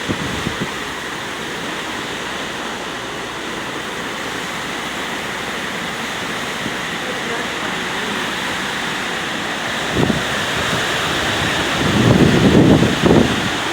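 Steady rushing storm noise from Hurricane Zeta. About ten seconds in, and again near the end, wind gusts buffet the microphone with low rumbles.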